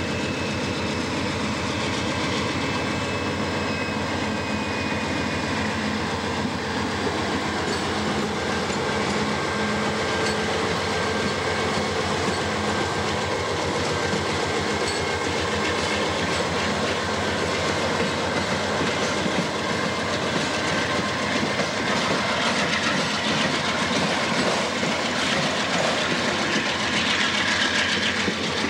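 Canadian Pacific GE AC4400CW diesel locomotive passing close with its engine running, followed by auto rack cars rolling by, wheels clicking steadily over the rail joints. Thin steady squealing tones from the wheels run under it.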